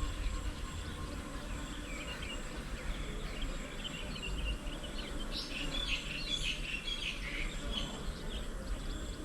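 Birds chirping in quick short calls, busiest a little past halfway, over a steady high insect drone and a low background rumble.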